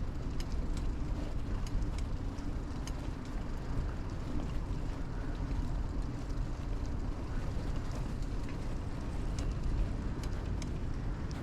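A 2000 Kona Blast mountain bike being ridden: a steady low rumble of tyre and wind noise on a chest-mounted camera under a wind cover. Small scattered clicks and rattles from the bike are heard throughout.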